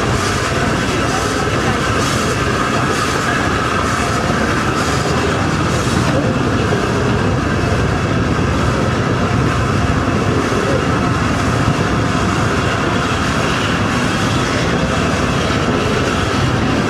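Train running steadily on the rails: a continuous rumble with a faint hiss pulsing about once a second for the first few seconds, then an even run.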